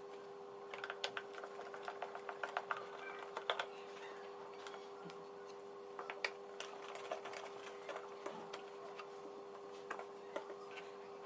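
Light clicks and taps of hands handling the plastic housing and small parts of a vacuum cleaner being taken apart, in clusters about a second in and again around six seconds, over a steady hum.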